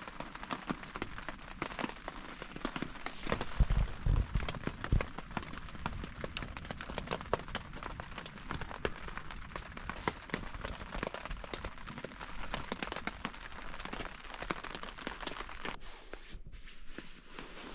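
Rain falling on a tent, a dense, irregular run of drops, with a few low thumps about four seconds in.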